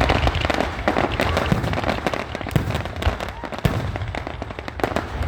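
Fireworks display: a dense, irregular run of bangs and crackles with low booming underneath.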